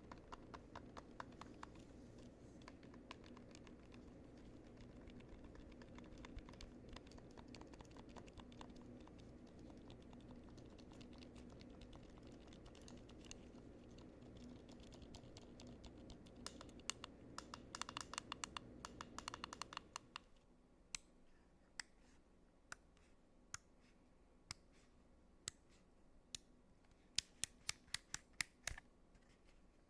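Quick small clicks of buttons being pressed, over a low steady hum. About two-thirds in there is a dense flurry of clicks; then the hum cuts out and the clicks come sparser and sharper.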